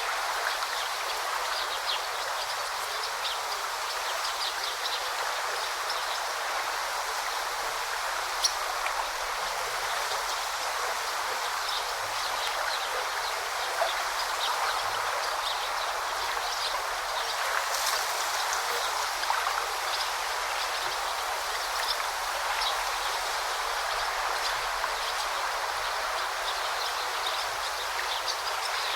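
Forest stream babbling steadily, with faint short bird chirps scattered through.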